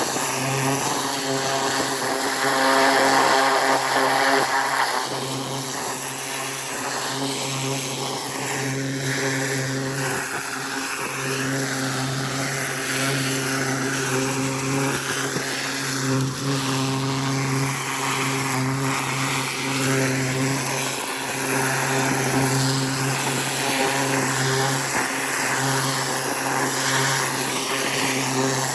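Engine-driven 4200 psi pressure washer running steadily, its motor humming under the hiss of water from a rotating nozzle. The engine note brightens for a few seconds about a second in.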